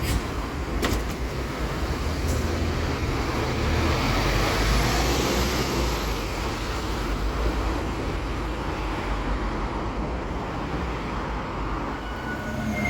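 Scania K280UB city bus under way: steady engine rumble and road noise, swelling a little mid-way, with a sharp click about a second in and a brief high squeal near the end.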